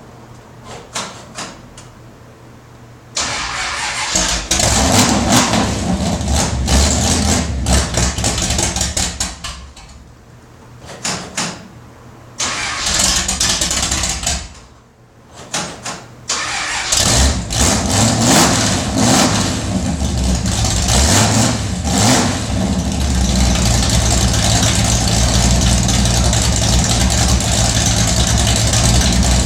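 Dodge 340 small-block V8 cold start: a few seconds of cranking, then it fires and runs unevenly, nearly dying twice, before catching properly and settling into a steady fast idle.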